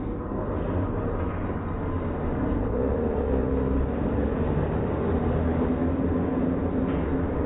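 Stunt cars' engines running with a steady low rumble, a little louder from about two seconds in.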